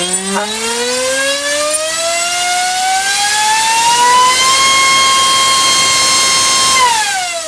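Gartt HF500 1600kv brushless motor driving a 6x4 propeller on a thrust stand, powered from a 6-cell battery: a loud whine that climbs steadily in pitch for about four and a half seconds as the throttle is opened, holds at full throttle, then falls near the end as the throttle is closed.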